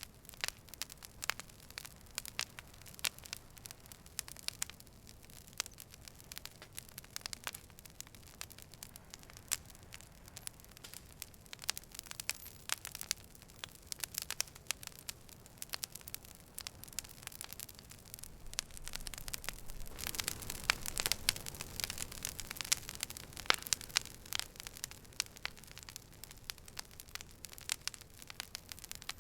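Campfire burning, with frequent sharp crackles and pops over a low hiss of flames. The flames' low rush and the crackling swell for a few seconds about two-thirds of the way through.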